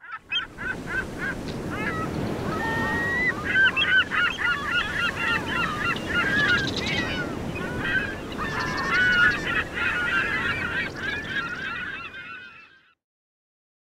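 A flock of water birds calling over open water: many short cries that rise and fall, overlapping, over a steady low wash of waves. It fades out about twelve and a half seconds in.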